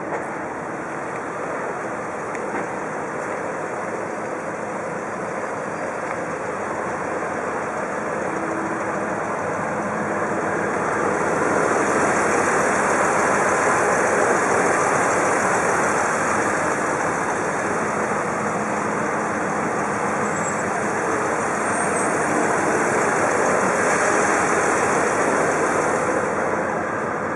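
2000 Ford F-150 pickup truck running, a steady engine and road-noise hum that grows louder through the middle and eases off near the end.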